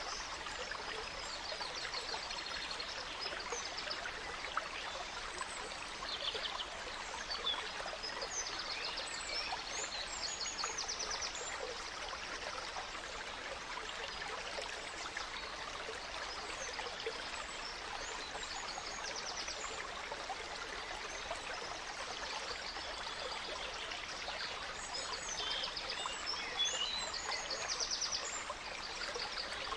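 A gentle stream trickling and babbling steadily, with songbirds chirping and trilling over it on and off throughout.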